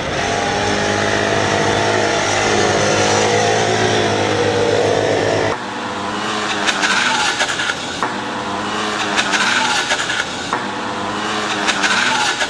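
Small racing motorcycle engines of MiniGP bikes running hard on track, their revs rising and falling. About five and a half seconds in the sound changes abruptly to a thinner, higher engine note with short clicks.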